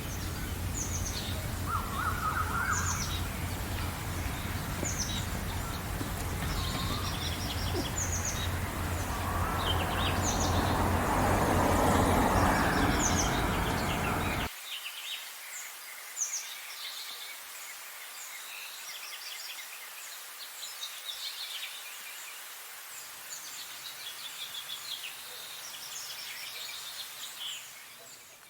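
Several songbirds chirping and singing, with short high chirps and trills overlapping. A steady low background rush sits under them for the first half and cuts off abruptly about halfway through, leaving only the birds.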